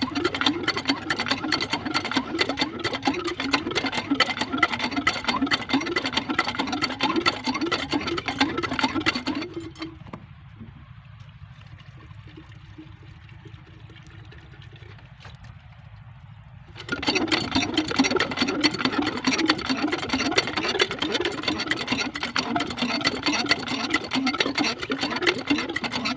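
Kirloskar diesel water-pump engine running with a fast, loud clatter. About ten seconds in the clatter drops away to a faint low rumble for about seven seconds, then comes back at full strength.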